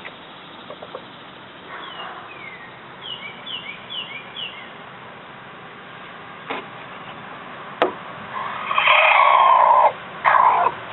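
Chickens calling: a run of short, high, falling chirps, then a loud call about a second and a half long near the end, followed by a shorter one. Two sharp knocks fall in between.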